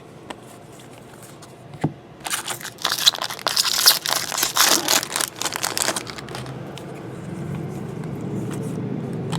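Foil wrapper of a 2012 Bowman Draft jumbo card pack being torn open and crinkled, a dense crackling run lasting about four seconds, starting about two seconds in. A low steady hum builds near the end.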